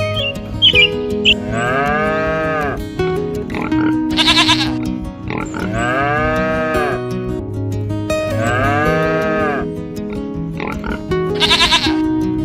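Background music with farm-animal calls laid over it: three long calls that rise and fall in pitch, and two short quavering calls.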